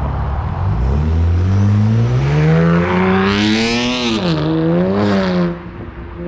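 ProCharger-supercharged car engine accelerating hard. Its pitch climbs steadily for about three seconds, under a high hiss, then dips twice before it falls away sharply near the end.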